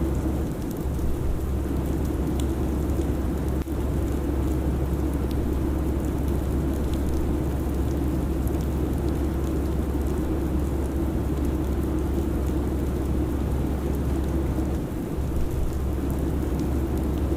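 Steady airliner cabin drone: the constant roar of jet engines and airflow, heaviest in the deep bass with a steady hum above it.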